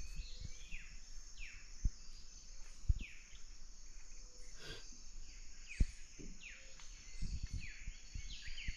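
Birds calling, many short notes each falling in pitch, over a steady high insect hiss, with three sharp knocks.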